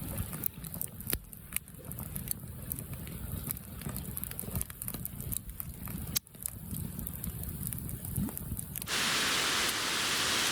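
Wind gusting over the microphone in a low rumble with scattered light ticks. About nine seconds in it cuts abruptly to a steady hiss of rain.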